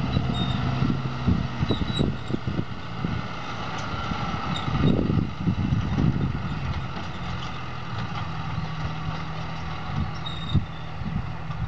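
John Deere 6125R tractor's four-cylinder diesel engine running steadily, with scattered knocks and rattles and a louder passage about five seconds in.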